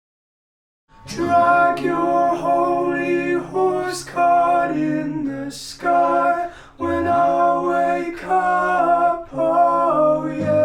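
Voices singing unaccompanied, starting suddenly about a second in after silence; an acoustic guitar comes in right at the end.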